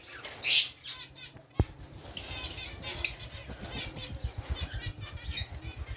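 Aviary birds chirping and calling, with rapid wing flapping through the second half. A loud call about half a second in and a single sharp knock a little later.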